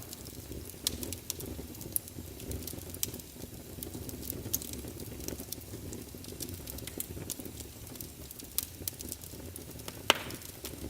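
Wood fire burning in a fireplace: a steady low rumble of flames with irregular sharp crackles and pops from the logs, one louder pop near the end.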